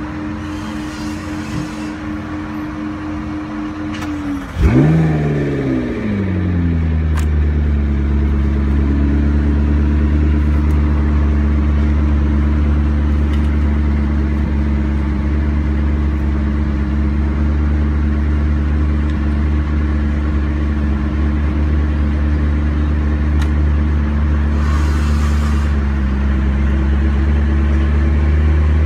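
BMW 5 Series (F10) car engine starting about four and a half seconds in, heard from inside the cabin: a sharp start, the revs flaring and falling back over a couple of seconds, then settling into a steady idle. A steady hum is heard before it starts.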